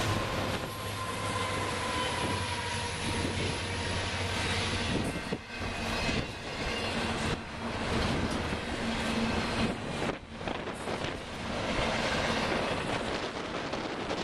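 Union Pacific double-stack intermodal train passing close by. The diesel engines of the DPU locomotives, an SD70ACe and an SD70M, hum past for the first few seconds. Then comes the continuous rolling noise of container cars' wheels on the rails.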